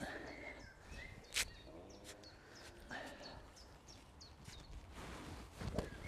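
Songbirds chirping, with short high falling notes repeating throughout, and one sharp click about a second and a half in.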